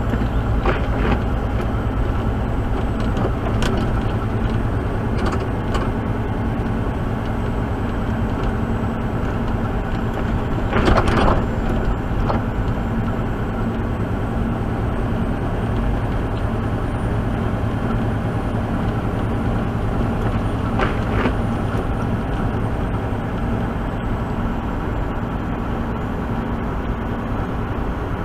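Truck engine running steadily with road noise, heard from inside the cab while driving, with a brief louder rush about eleven seconds in.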